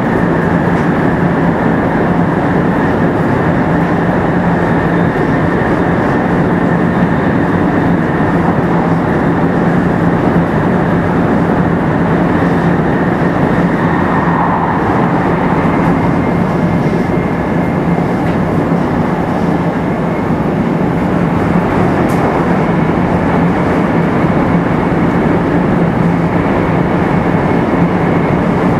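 Running sound of a 500 series Shinkansen car at speed, heard from inside the car: a steady, dense rumble of wheels and track with a constant low hum. The GTO-inverter traction motors give no clear whine.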